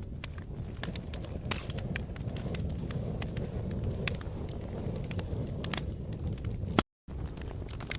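Wood fire crackling, with irregular sharp pops and snaps over a steady low rumble. A loud snap comes just before the sound cuts out completely for a split second, about seven seconds in.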